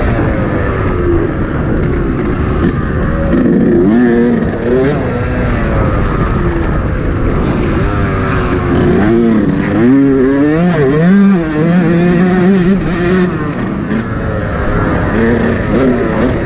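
Motocross bike engine revving hard and easing off again and again, its pitch climbing and dropping as the throttle is worked, loudest about two-thirds of the way through.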